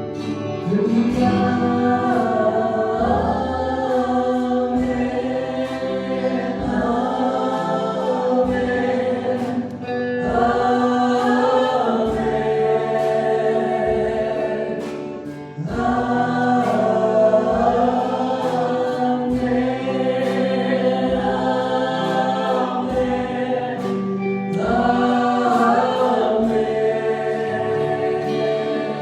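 Choir singing a gospel hymn in long, sustained phrases over low held notes, with a short break between phrases about halfway through.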